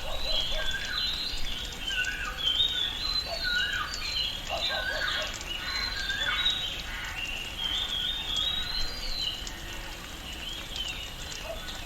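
Tropical rainforest ambience: many birds chirping and calling in short, repeated phrases over a steady background hiss.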